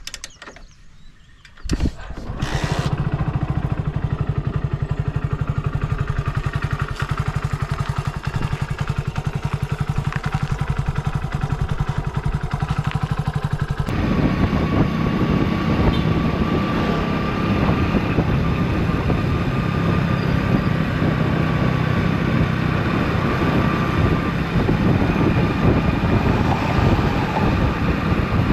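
Hero Splendor Plus XTEC's 97 cc single-cylinder engine starting about two seconds in, then running steadily. About halfway through, the sound turns abruptly louder and noisier.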